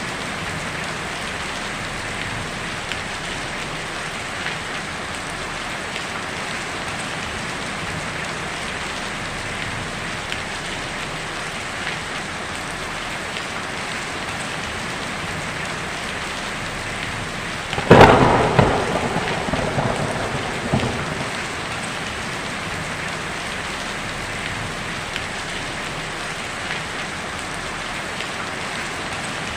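Heavy rain pattering steadily on a tin roof. About two thirds of the way through, a sharp, loud thunderclap cracks and rumbles away over about three seconds.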